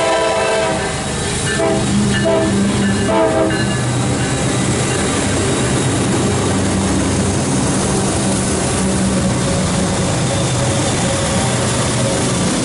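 CSX loaded coal train passing close by. The locomotive's horn blast ends about a second in and is followed by three short horn notes. After that the diesel locomotives run steadily with rail noise from the loaded coal cars.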